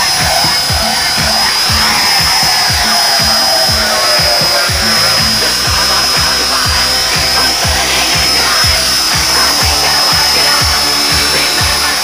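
Music with a steady beat, over the steady high-pitched whine of an Esky remote-control helicopter's small electric motor and rotors.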